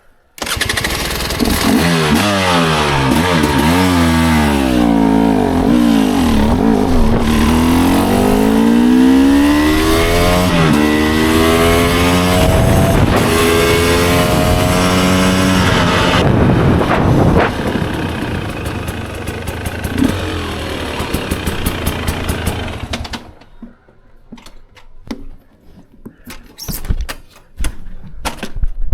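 GasGas EC300 two-stroke dirt bike engine running, its pitch rising and falling as it revs, for about twenty seconds, then cutting off suddenly, followed by scattered clicks and knocks.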